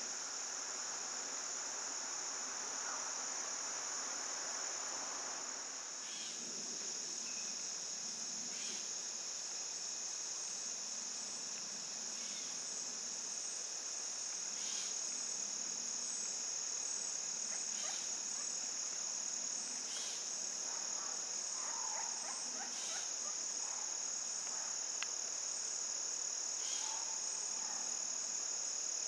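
Steady, high-pitched chorus of insects, with a handful of faint short calls scattered through it.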